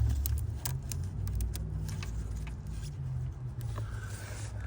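Scattered light clicks and rattles of a plastic EVAP line quick-connect fitting as its locking tabs are squeezed and worked by hand, over a steady low hum.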